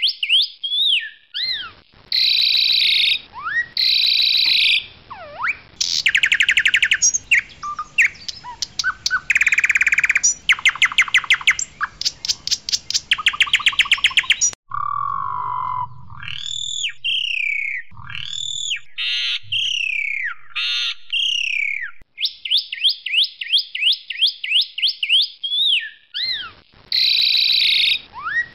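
Asian pied starling singing a long, varied song: fast runs of repeated high notes and rattling trills, then loud slurred whistles that sweep down in pitch, in phrases with short pauses between them.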